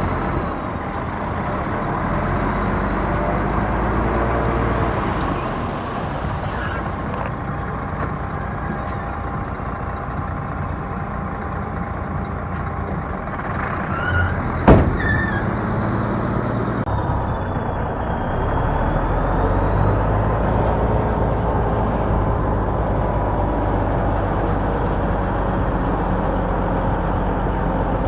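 Heavy diesel earthmoving machinery running steadily under load, with one sharp bang about halfway through; a few seconds later the engine note grows stronger.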